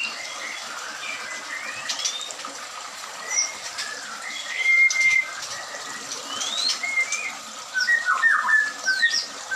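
White-rumped shama giving scattered clear whistled notes and rising whistles, with a quick run of short choppy calls near the end.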